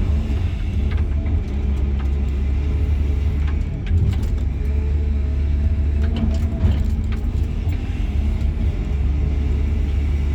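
Cat 323 GC excavator's diesel engine running steadily, heard from inside the cab as a deep, even drone, with a few faint clicks.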